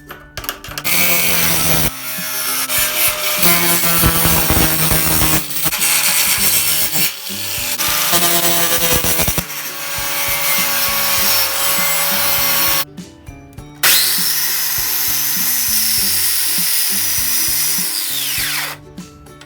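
Handheld power tool abrading the rusted metal of a gate in long runs, with a high whine over a rough grinding noise. It pauses briefly, and near the end its pitch falls as it spins down. Background music plays underneath.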